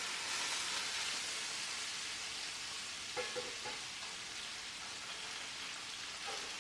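Potatoes and sausage frying in a pot: a steady sizzling hiss that swells as the lid comes off and steam escapes, then carries on under stirring.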